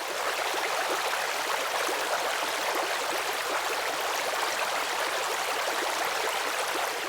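Running water, like a stream, rushing steadily. It fades in at the start and then holds an even level.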